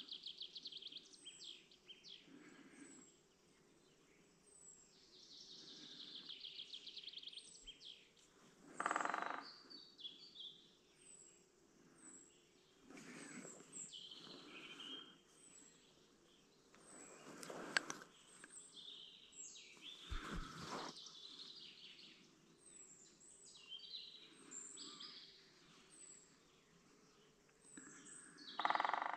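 Wild songbirds calling and singing, including quick trills and short chirps, over faint outdoor background noise. A few short rustling noises break in now and then, the loudest about a third of the way in and near the end.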